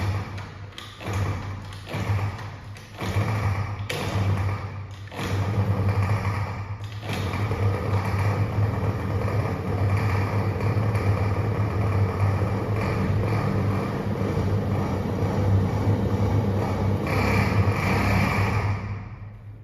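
Scooter engine running and being revved: a few short revs in the first five seconds, then held at a steady speed, a little higher near the end, before dying away just before the end.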